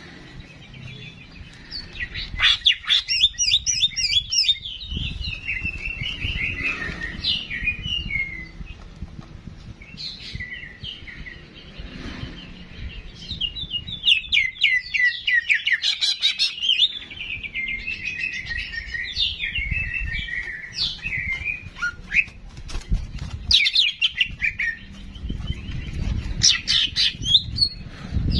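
Songbird singing in long chattering phrases of rapid trills and warbled notes, in repeated bouts with short pauses between them, over a faint low rumble.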